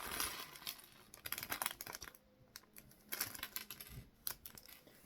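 Plastic Lego parts bag crinkling and rustling as it is handled, with light clicks of small plastic pieces; a brief lull a little over two seconds in.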